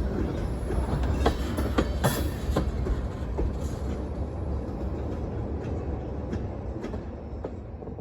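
Freight train rolling past on the rails: a steady low rumble with irregular clicks of wheels over rail joints, slowly growing quieter toward the end.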